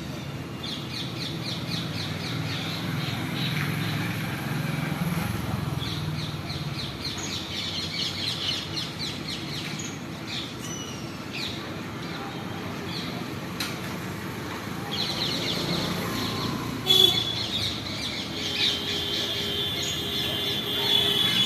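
Parrots chirping in rapid trains of short, high notes, with louder, steadier squawk-like calls about 17 seconds in and near the end.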